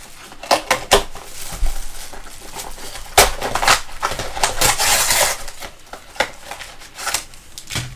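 A trading card box being cut and opened by hand: scattered sharp clicks and taps of cardboard and packs being handled, with a stretch of crinkling wrapper noise about halfway through.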